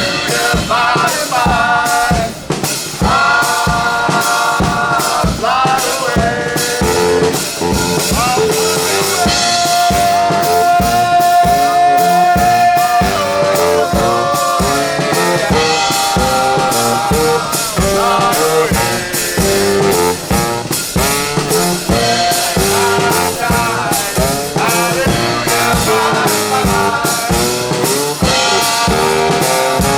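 A brass band with trombone and drum kit playing a lively tune. One note is held for several seconds partway through.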